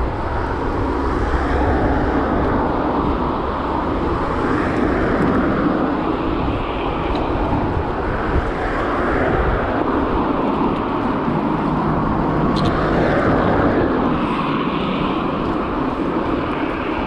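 Steady rushing of wind across an action camera's microphone, mixed with tyre noise, while riding a gravel bike into a strong headwind, swelling and easing a few times.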